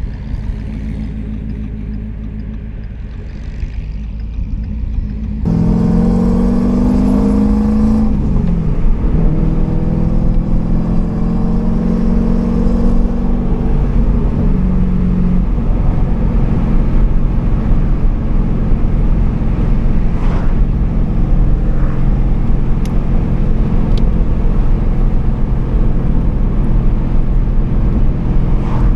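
Turbocharged Gen 2 Coyote 5.0 V8 in a 2015 Mustang running under way, heard from inside the car. It runs low and steady at first, then gets suddenly louder about five seconds in as it pulls, rising in pitch before dropping sharply, and carries on as a steady loud drone.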